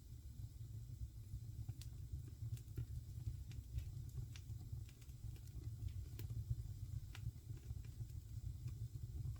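Wood fire crackling in a fireplace: irregular sharp pops and snaps scattered through, over a steady low rumble.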